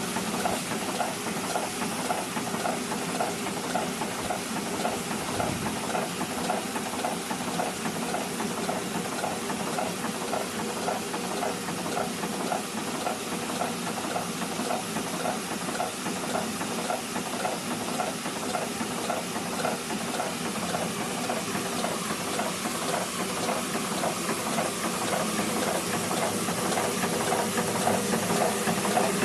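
Ca. 1891 6-inch Rider-patent hot air pumping engine built by Otto Boettger running steadily, its mechanism clacking in an even rhythm over a faint hiss. It grows slightly louder near the end.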